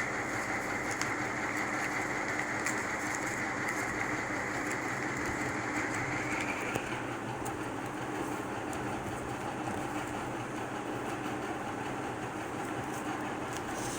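Steady rumbling background noise with a high whine that fades out about seven seconds in.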